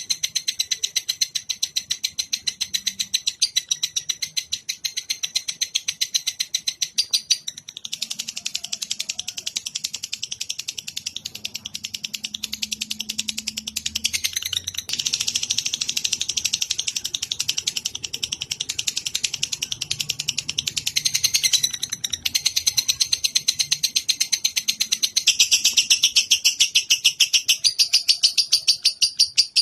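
A fast, high-pitched trill on a songbird-training (masteran) recording: pulses repeated many times a second, going on without a break and shifting in tone every several seconds.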